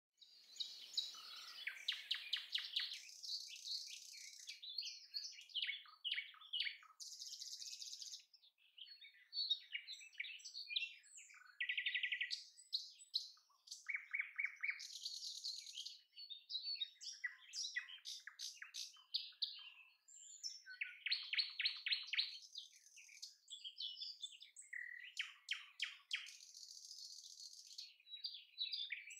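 Birds chirping and twittering, with high chirps and several quick trills of rapidly repeated notes.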